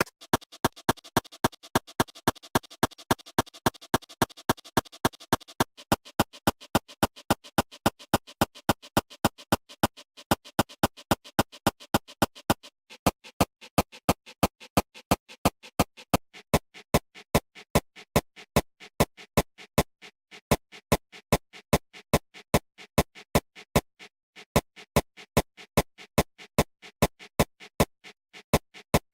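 A steady series of sharp clicks, about three a second. A faint hiss under them fades out in two steps, at about five and a half seconds and at about thirteen seconds.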